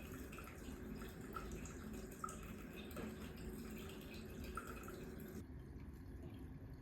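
Faint water drips, a few separate drops over a low steady room hum.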